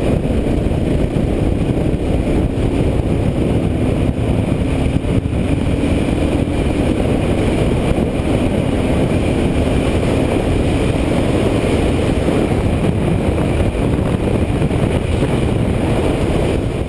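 Steady, loud wind rush on a helmet-mounted camera while riding a Kawasaki KLR650 motorcycle, with the bike's single-cylinder engine running underneath.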